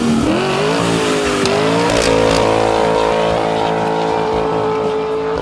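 Car engine revving up hard, its pitch climbing for about two seconds and then held steady at high revs.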